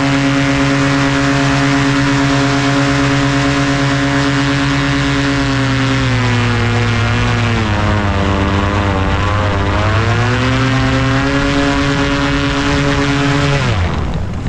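Paramotor engine and propeller running hard at steady high throttle. About halfway through, the pitch sags and wavers for a few seconds, then climbs back. It cuts off abruptly just before the end.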